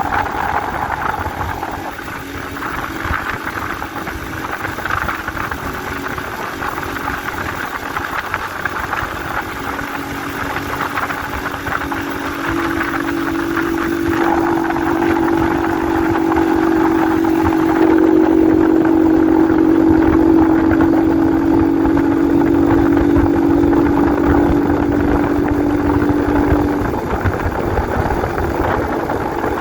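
Honda 125 CDI motorcycle's single-cylinder four-stroke engine running at a steady speed while riding. It grows louder from about halfway through and eases off near the end.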